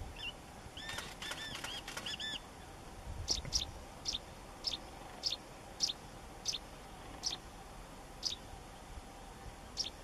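Birds calling: a quick cluster of arched, ringing notes about a second in, then about ten short, sharp high notes, spaced further apart as they go.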